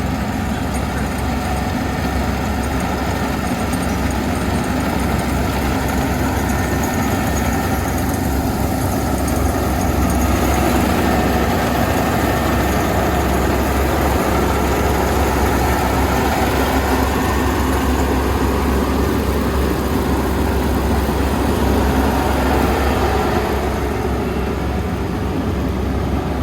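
Kubota ER470 combine harvester's diesel engine running steadily under continuous machine noise, a little louder through the middle stretch.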